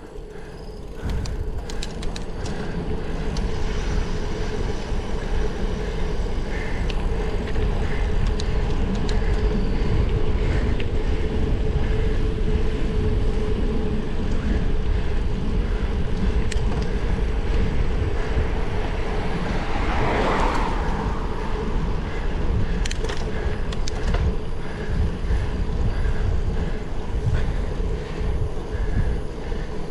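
Wind rumbling on the microphone of a moving bicycle, with a steady hum throughout and a louder rush of noise about twenty seconds in.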